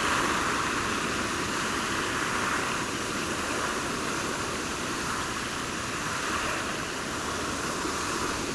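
Steady hiss of a lawn sprinkler spraying water, with no bird calls standing out.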